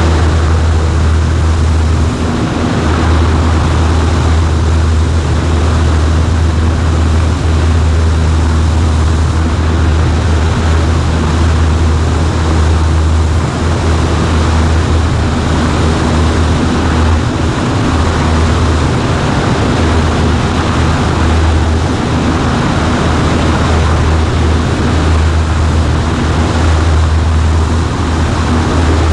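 Cessna 140A's piston engine and propeller running steadily in flight, a loud, constant low drone with rushing air noise over it, as heard in the cockpit.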